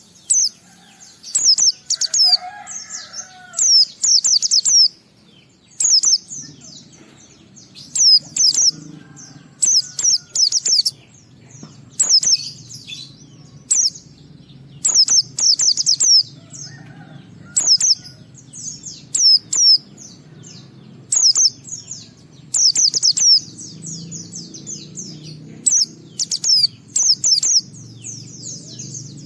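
White-eye (pleci) singing: short bursts of rapid, high chirping notes, repeated roughly every second, with a faint low hum beneath.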